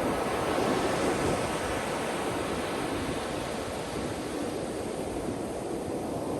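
Ocean surf washing onto a beach: a steady rushing noise of breaking waves, slightly fuller in the first few seconds and easing a little after the middle.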